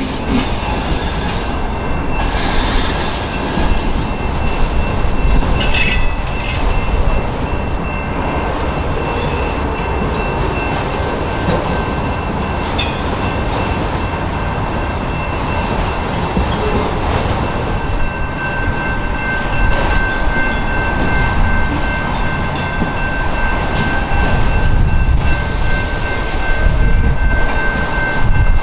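Long freight train of autorack cars rolling past close by: a steady rumble of wheels on rail with a few sharp clacks, and a high, drawn-out wheel squeal that grows stronger in the second half.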